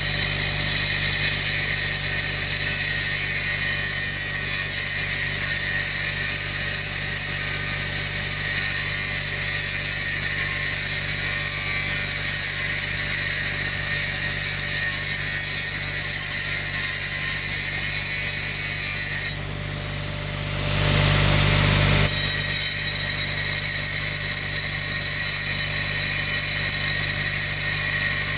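A machine running steadily, with a low, even hum and a high hiss. About 19 seconds in it dips for a moment, then runs louder for a couple of seconds before settling back.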